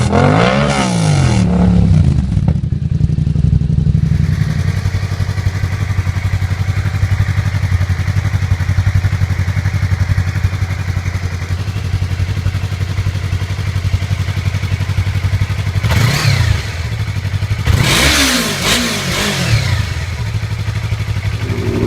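Motorcycle engine through a loud aftermarket exhaust: quick rev blips, then a long lumpy idle, then two more sharp revs near the end.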